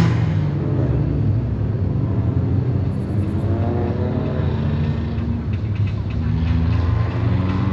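Car engine running steadily, its pitch holding level.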